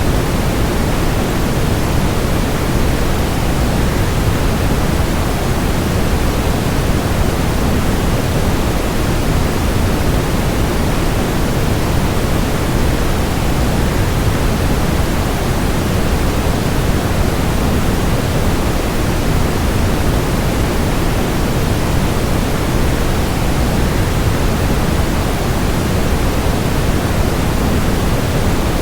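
Steady, unchanging rush of waterfall sound blended with white noise, deep and even, with no breaks.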